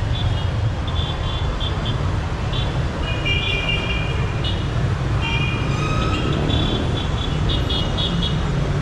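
Dense city street traffic: a steady rumble of car, bus and motorbike engines, with short, repeated high-pitched tones from passing vehicles, some held for about half a second.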